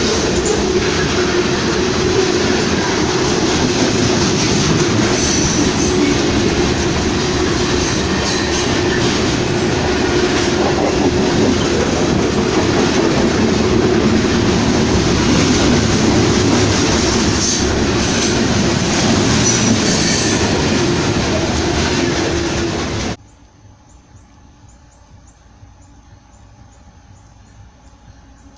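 A train passing close by with a steady loud rush of wheels on rail and a few brief high wheel squeals. About 23 seconds in it cuts off abruptly, leaving a faint background with a high pulsing buzz.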